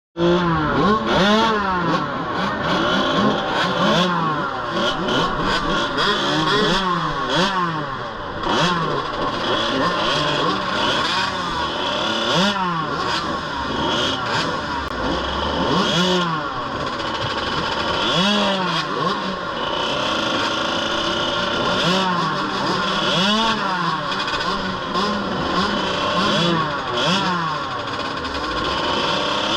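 Several KTM 65 two-stroke mini motocross bikes riding, their engines overlapping and repeatedly revving up and dropping back as they shift and throttle off.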